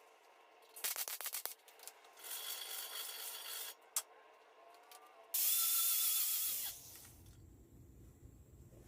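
Hand scraping and rubbing on the metal of an aluminium fuel tank: a quick run of clicks, a longer scraping spell and a sharp click, then a loud hiss lasting about a second and a half, after which a low hum comes on.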